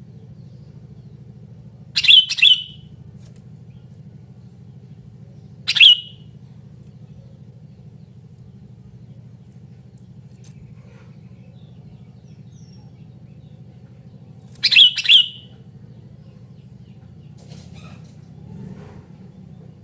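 Sooty-headed bulbul giving short, loud chirping calls three times, about two seconds in, near six seconds and around fifteen seconds, over a steady low hum.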